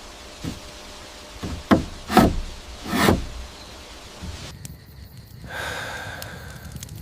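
A series of dull knocks or thuds, about five in the first three seconds, the loudest about two and three seconds in, after which the sound drops off abruptly to a quieter background.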